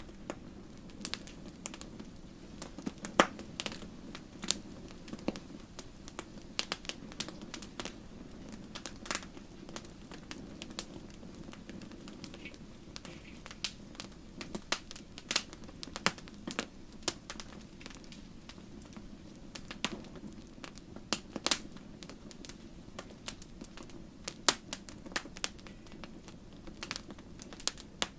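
Wood campfire crackling: irregular sharp pops and snaps, several a second, over a steady low rush of burning.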